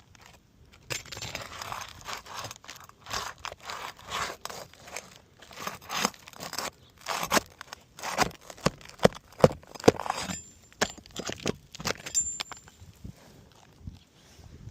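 Asphalt roof shingles being pried up and their nails worked loose: irregular scraping and crackling with sharp snaps, starting about a second in and easing off near the end.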